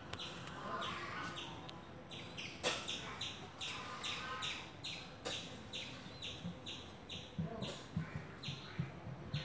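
A small bird chirping repeatedly in the background: short, high, falling chirps, a few a second. Near the end a low rhythmic pulsing starts up under the chirps.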